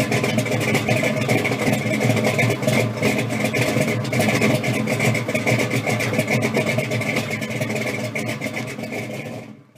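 A car engine running at a steady idle, fading out near the end.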